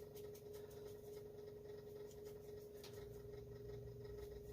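Faint light scratching and small ticks of hand work on small carburetor parts, the inlet needle and seat being cleaned, over a steady hum.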